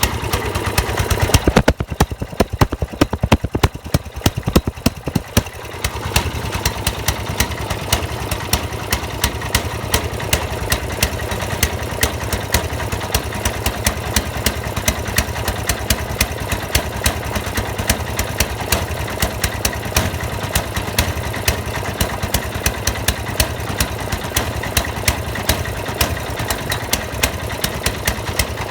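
Snowblower engine running and misfiring, with loud irregular pops among its firing strokes. From about one and a half to five and a half seconds in the running turns ragged, with louder bangs and dropouts, before it settles back into steadier running still punctuated by pops.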